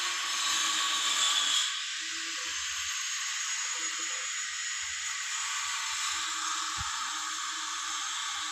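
A steady hiss, a little louder for the first second and a half.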